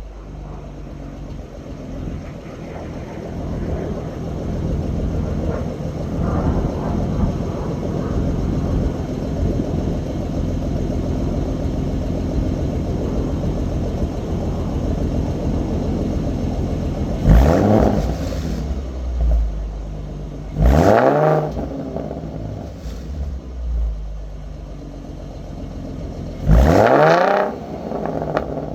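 Ford Mustang 3.7 L V6 through a Roush axle-back exhaust, running steadily at first, then revved sharply three times, each rev rising quickly in pitch and falling straight back.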